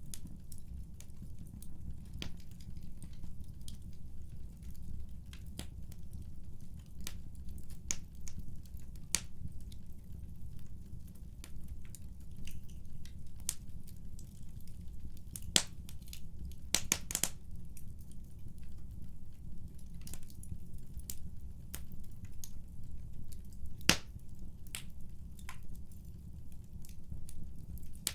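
Wood fire burning in a fireplace: a steady low rumble of flames with irregular sharp crackles and pops from the burning wood, a few louder snaps around the middle and one near the end.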